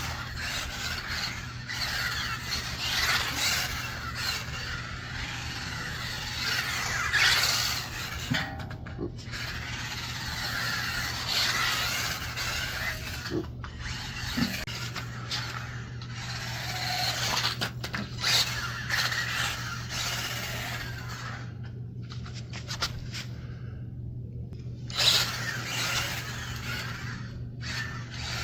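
Small 1/24-scale brushed RC short course truck driving, its motor and gears whining and its tyres squealing in uneven surges as it speeds up and slows. It goes quiet for a few seconds near the end, then starts up again.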